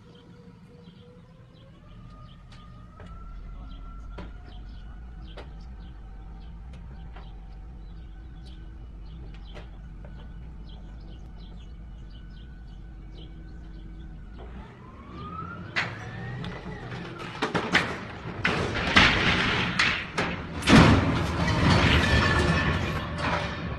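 A heavy truck's engine whine rises slowly in pitch over a low rumble. About fourteen seconds in comes a quick rising glide, followed by loud crashing and scraping that runs through the last several seconds, the sound of the truck going over.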